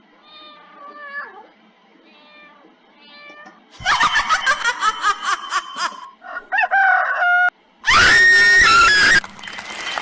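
A string of cat meows and yowls: a few soft meows, then two loud, drawn-out yowls starting abruptly about four and eight seconds in, each cut off sharply, with a short stretch of noise near the end.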